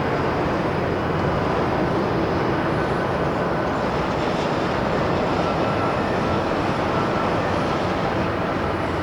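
Jet airliner on its landing approach, giving a steady rushing engine noise with a faint high whine over it.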